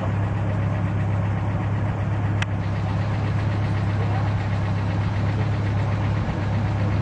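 Vintage Lincoln car engine idling steadily at low speed, with one sharp click about two and a half seconds in.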